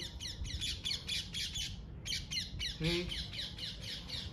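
Birds calling: a fast, steady series of short, high, falling notes, about eight a second, with a brief pause about two seconds in. A single short lower-pitched call sounds near the three-second mark.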